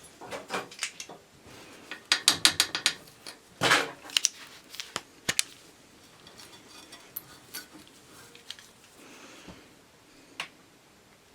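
A ratcheting metal mechanism clicking, with a quick run of rapid clicks about two seconds in and scattered single clicks and knocks before and after.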